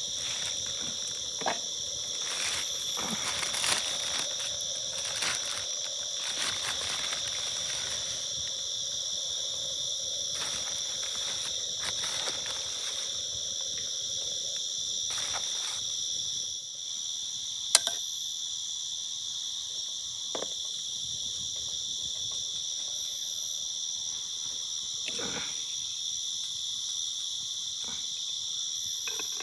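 Steady chorus of night insects, a continuous high-pitched buzz, with a few sharp clicks and knocks, the loudest a little past halfway.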